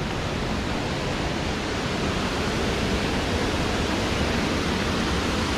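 Steady rush of a jungle waterfall, an even noise with no let-up that grows a little louder toward the end.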